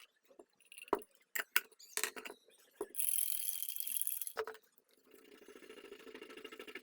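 Hand work on small metal lighter parts: a few sharp clicks and taps, then a hiss lasting about a second and a half, then steady fine scratching or rubbing from about five seconds in.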